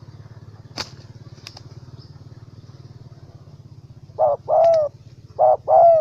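Spotted dove cooing: a phrase of four loud coos, each bending down in pitch, starting about four seconds in. A steady low pulsing hum like an idling motor runs underneath, with two sharp clicks about a second in.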